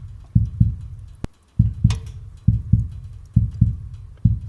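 Heartbeat, a steady double lub-dub thump about once every 0.9 seconds. There is a single sharp click about a second in.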